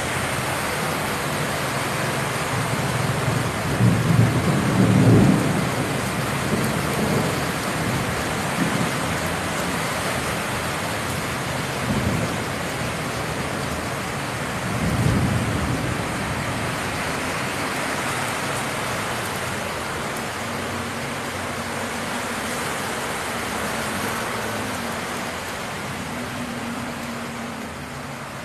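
Heavy rain falling on a flooded street: a steady loud hiss of rain and running water. A few low rumbles rise out of it, the loudest about four to five seconds in and another about halfway through.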